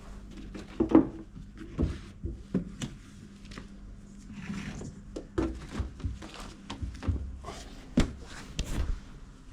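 Irregular knocks and thuds of hard objects being handled and set down, over a steady low hum. The loudest knocks come about a second in and near the end.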